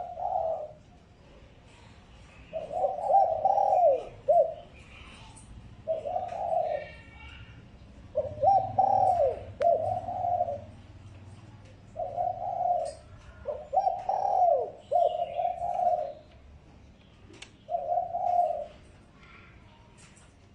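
Spotted dove cooing in a series of short low phrases, about eight of them a second or two apart, some ending in falling notes: a decoy bird's territorial call used to provoke wild doves.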